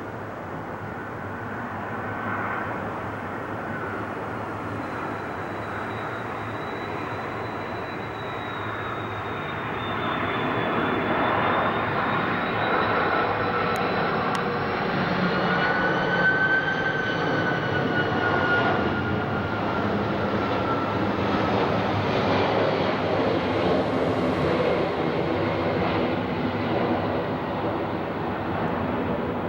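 Airbus A330 twin-engine jetliner flying past: steady jet engine noise with high whining tones that glide in pitch. It grows louder about ten seconds in and stays loud.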